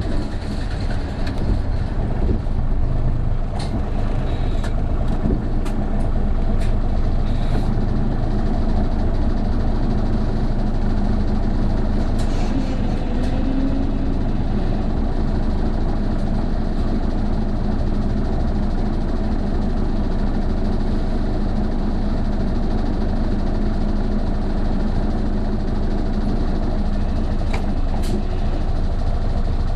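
Isuzu Erga city bus under way, heard from inside the cabin: a steady engine drone, with a few sharp clicks or rattles in the first several seconds and again near the end.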